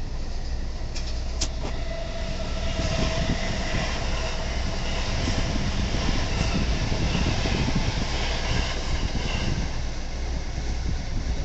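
Tōhoku Main Line train passing over a level crossing, its wheels clattering on the rails; the sound grows louder about three seconds in.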